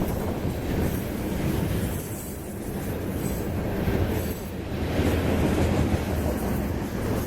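Freight train rolling past trackside: a steady rumble of wheels on rail, with faint high-pitched wheel squeal coming and going.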